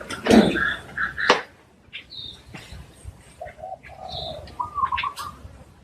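Spotted dove cooing, one phrase of low coos a few seconds in, with high chirps from other birds. A couple of louder sharp sounds come about a second in.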